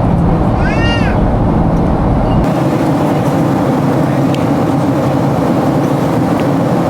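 Steady, loud vehicle travel noise heard from inside the cabin, a broad rush with a deep rumble. A brief rising-then-falling tone sounds about a second in. The deepest part of the rumble drops away suddenly a couple of seconds later.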